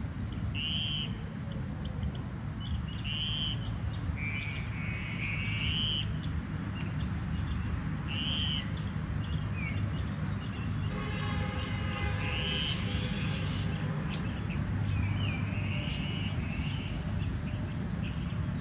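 Birds chirping in short, repeated calls over a steady high-pitched insect drone, with a low outdoor rumble underneath; a longer, lower call comes about eleven seconds in.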